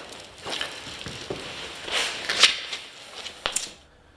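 Irregular crunching and rustling noises: a run of short scrapes and crackles that dies away near the end.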